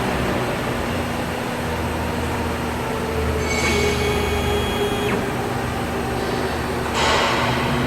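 Stepcraft Q408 CNC router running, a steady mechanical noise with a low hum. High whining tones rise over it about three and a half seconds in, stop sharply about five seconds in, and return near the end.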